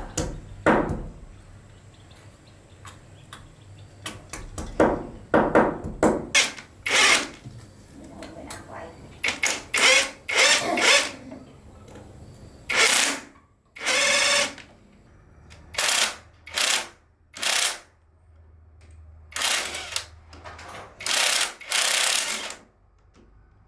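Power drill run in a series of short, loud bursts that start and stop irregularly, each lasting under a second to about a second.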